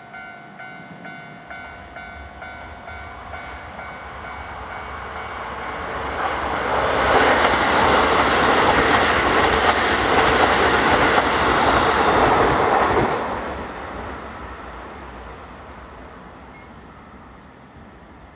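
Japanese level-crossing warning bell ringing in quick regular pulses, then a train rumbles through the crossing close by. It builds up, is loudest for about six seconds, drops sharply as the last car clears and fades away.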